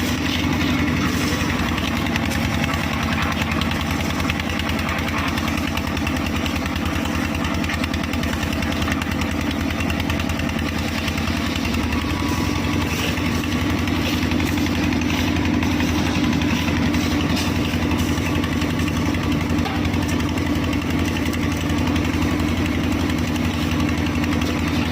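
Engine of a concrete mixer with a lift running steadily, a constant, fast-pulsing drone with no change in speed.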